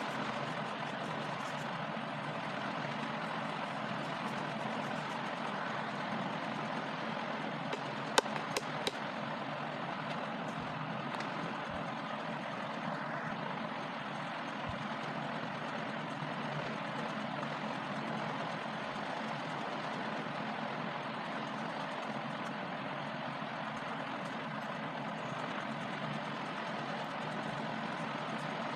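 Steady background noise with a few sharp clicks about eight seconds in.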